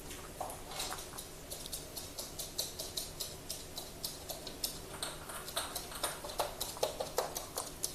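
Parrots eating leaves: a run of small irregular beak clicks and nibbling, several a second, with a few crunchier bites between about five and seven seconds in.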